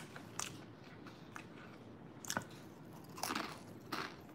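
Close-mouthed chewing of a mouthful of burrito with blue Takis rolled tortilla chips in it, with a few scattered crunches about a second apart.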